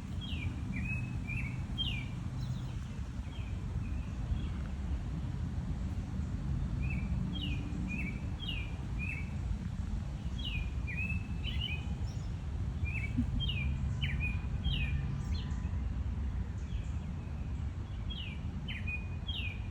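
A songbird chirping in clusters of short, quick notes that slide sharply in pitch, with pauses of a few seconds between the clusters, over a steady low rumble of outdoor background noise.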